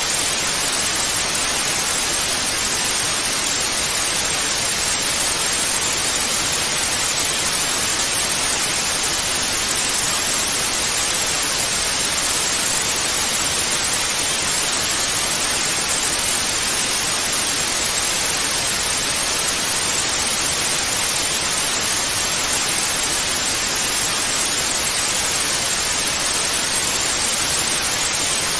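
Television static (snow-screen white noise): a steady, even hiss, brightest in the upper range and thin in the bass, with no changes or events.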